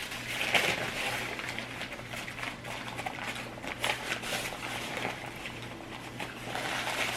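Close-miked eating sounds: chewing and mouth sounds with scattered small clicks and crackles, as lobster is eaten. A faint steady hum runs underneath.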